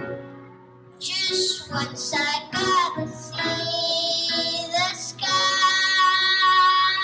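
A child singing a solo song phrase, ending on a long held high note over the last two seconds.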